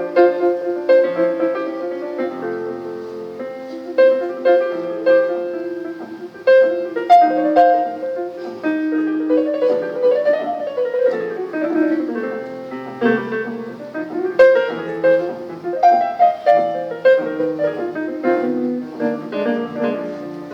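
Live piano playing an instrumental passage: chords under a melodic line, with a quick run of notes about halfway through.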